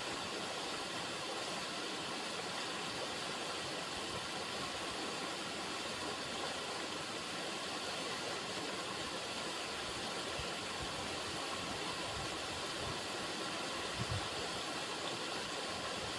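River water running steadily, an even rushing sound with a few brief low bumps near the end.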